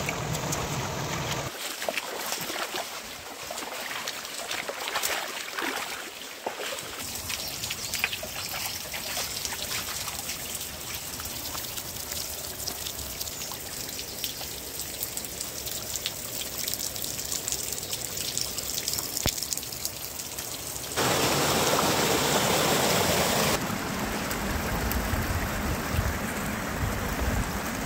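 Stream water trickling and splashing over rocks, with many small drips and splashes. About three-quarters of the way through it suddenly gets louder, a fuller rush of water lasting two or three seconds, then drops back.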